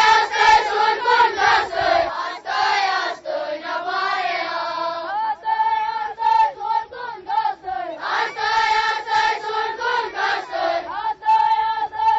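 A group of voices singing in unison, a chant-like song sung by a choir, with a softer passage about a third of the way through.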